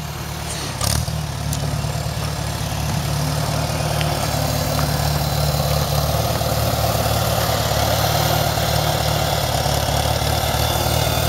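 A 1975 Farmall 140 tractor's four-cylinder gasoline engine, fitted with a new muffler, running steadily at low speed. It grows a little louder over the first few seconds and then holds even.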